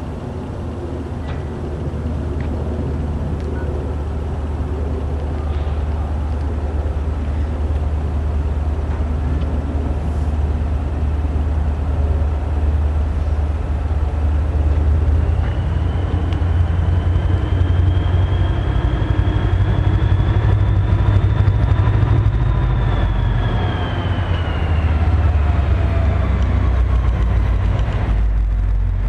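Diesel-hauled commuter train approaching, its engine rumble growing steadily louder. About halfway through, a high whine comes in, slowly rises in pitch, then falls away near the end.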